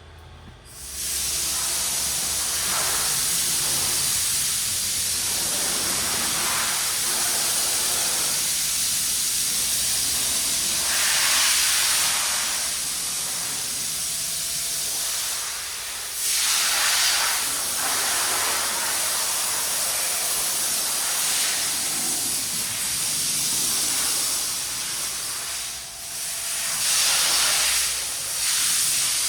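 A steady, loud hissing rush of noise that starts about a second in and swells louder a few times.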